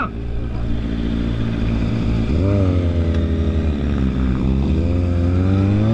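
Motorcycle engine running. A little over two seconds in it is revved up, then eases off, and near the end it climbs steadily in pitch as it accelerates.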